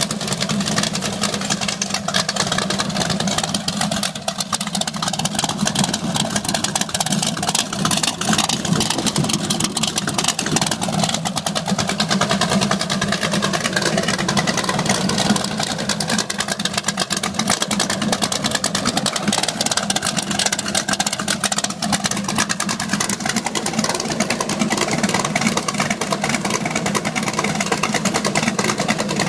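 383 stroker V8 idling steadily, its exhaust running through shorty speedway mufflers.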